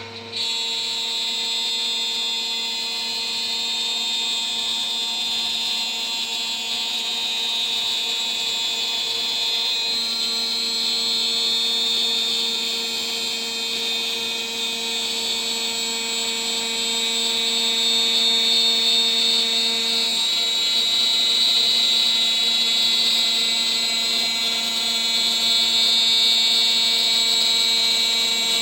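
CNC router spindle turning a 3 mm three-flute end mill at about 14000 RPM, cutting steadily with a constant high whine and a slight rise in loudness partway through.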